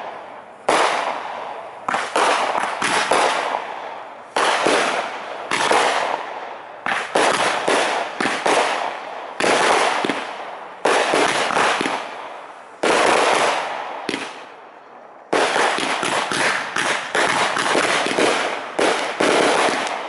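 Aerial fireworks shells bursting one after another, each sharp bang trailing off over a second or so. There is a brief lull a little past the middle, then a quicker run of bursts near the end.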